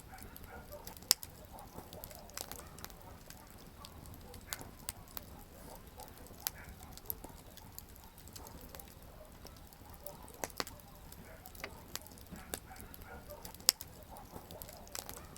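Wood campfire burning: a soft steady hiss with irregular sharp crackles and pops, two louder pops about a second in and near the end.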